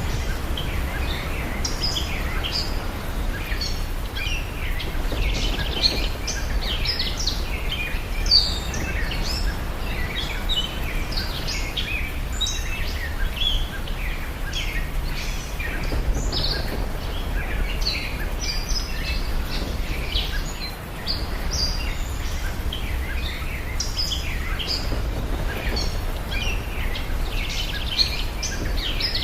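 Ambience of many birds chirping in short, quick calls, over a steady low rumble.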